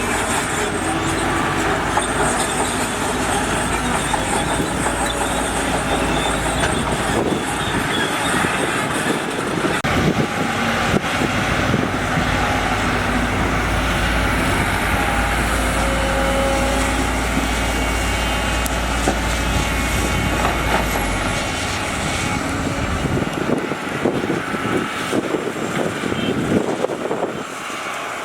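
Heavy diesel construction machinery running, with a steady low engine rumble that drops away about three-quarters of the way through. A string of metallic clanks follows near the end.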